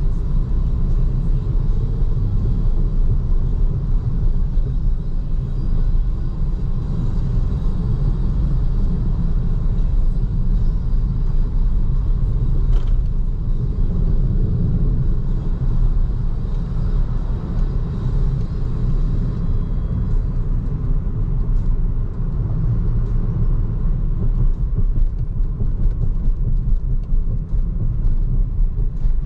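Steady low rumble of a BYD Seagull small electric hatchback driving on a city road. It is tyre and road noise, with no engine running.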